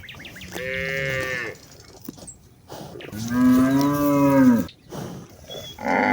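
Cattle mooing: three long, drawn-out moos, the middle one the loudest, the last starting near the end.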